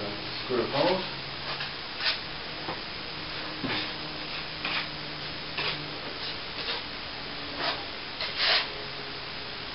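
Hand tools scraping and tapping in short, irregular strokes during plaster repair work, the loudest about a second in and near the end, over a faint steady hum.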